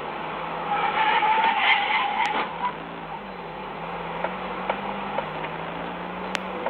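Car driving with steady road and engine noise, recorded by a dashcam, and a brief tyre squeal lasting about a second and a half, starting about a second in.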